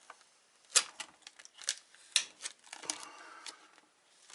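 Irregular sharp clicks and crackles of the UPS battery pack's sticker and plastic being handled, with a short stretch of rustling near the end.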